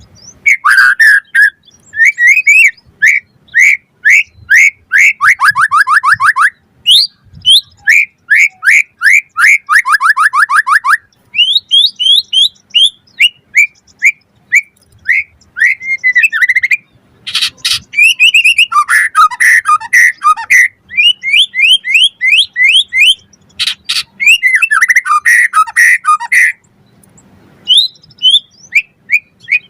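White-rumped shama (murai batu) in full song: fast runs of loud, varied whistled notes and rapid repeated trills, broken by short pauses. There are harsh rattling calls at about 17 and 24 seconds in.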